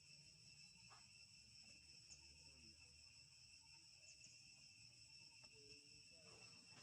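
Faint, steady high-pitched drone of insects, with a few small clicks.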